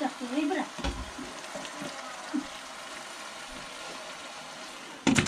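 Food sizzling steadily in a pan as it fries, with a utensil stirring it now and then; a short loud knock comes near the end.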